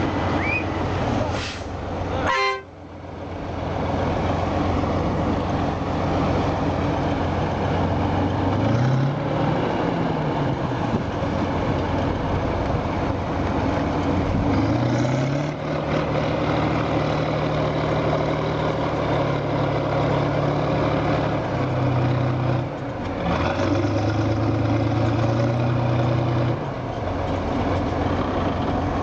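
Heavy truck's diesel engine revving hard under load while towing a machine stuck in deep snow; the revs climb about a third of the way in and again at the halfway point, hold high, and dip briefly twice near the end.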